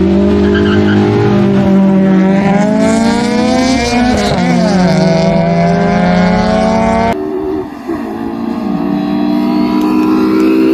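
Drag-racing cars launching and accelerating hard, engine rising steadily in pitch, with a sharp dip about four seconds in at an upshift before it climbs again. About seven seconds in the sound cuts abruptly to another engine pulling hard.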